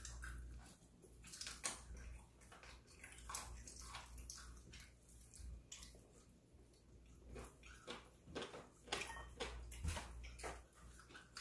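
Faint eating sounds: scattered short crunches and mouth smacks of people chewing fried chicken, over a low steady hum.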